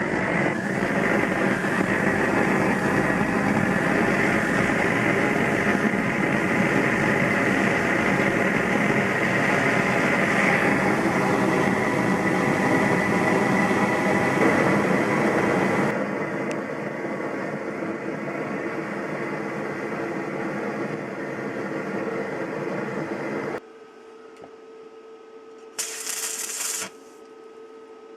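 Arc welding on a T-40AM tractor axle: the arc crackles and spatters steadily, loud for about sixteen seconds, then softer, and stops about 23 seconds in. The uploader puts this down to too high a welding current. After the arc stops there is a steady hum, with a short hiss about two seconds later.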